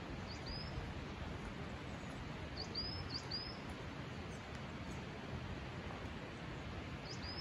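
A small bird giving short, high, upward-sliding chirps: a pair near the start, a quick run of four in the middle, and another pair near the end. Behind them is a steady outdoor hiss.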